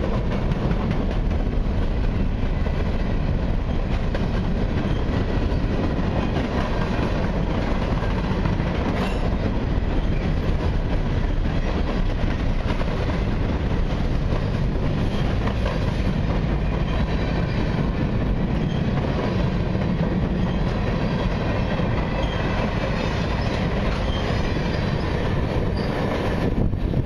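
Freight train's boxcars rolling past, a steady rumble of steel wheels on rail. The end of the train clears near the end and the rumble falls away.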